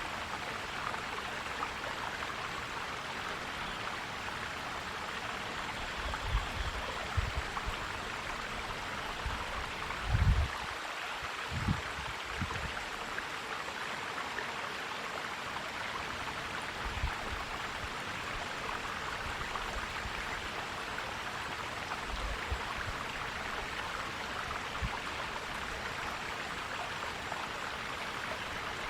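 Forest stream flowing steadily, an even rushing of water. A few brief low thuds come through, the loudest about ten seconds in.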